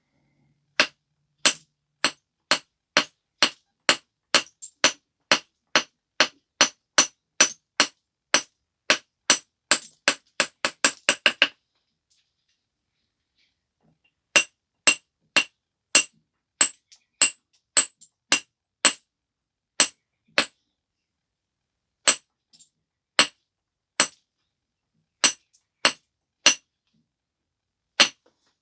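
A stone biface being flintknapped: a run of sharp, glassy clicks, about two a second, quickening just before the middle. After a pause of a few seconds the clicks resume and grow sparser toward the end.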